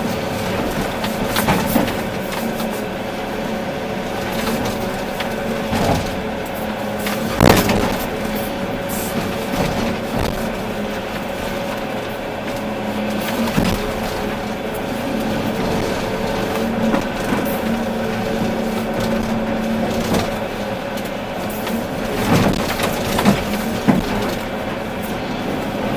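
Volvo EC380D excavator's diesel engine running steadily, with scattered sharp knocks and clanks from the work. The loudest knock comes about seven seconds in, and a cluster of smaller ones comes near the end.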